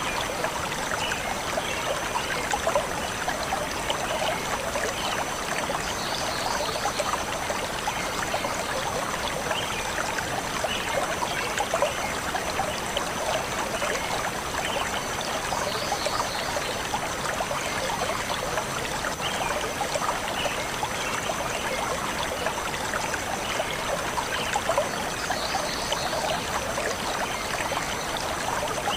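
Shallow forest stream flowing and trickling steadily over stones, with a few faint, brief bird chirps now and then.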